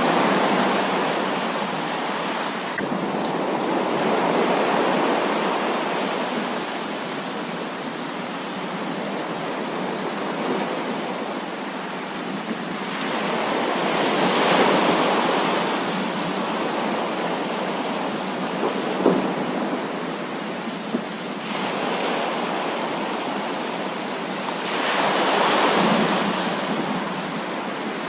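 Heavy rain falling in a dense, steady hiss, with rolls of thunder swelling up and fading about a second in, around four seconds in, midway and near the end. Two brief sharp taps stand out a little past the middle.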